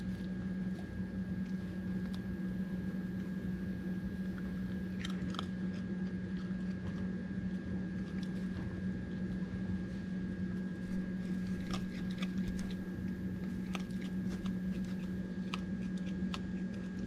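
Raccoon chewing dry dog food: scattered crunches over a steady low hum.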